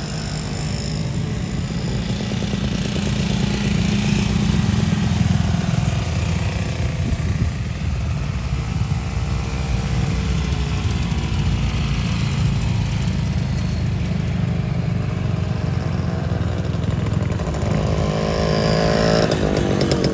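Classic motorcycle engines running, with a steady low rumble and revs that rise and fall in pitch, once around the middle and again near the end.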